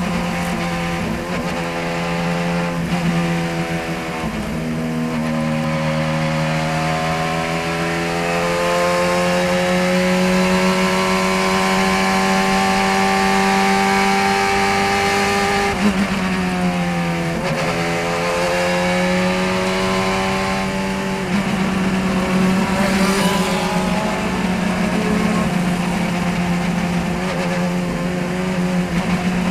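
Racing car engine at full throttle on track. Its pitch climbs slowly for several seconds, drops steeply a little past the halfway mark as the car brakes and changes down, then rises again, over a steady low drone.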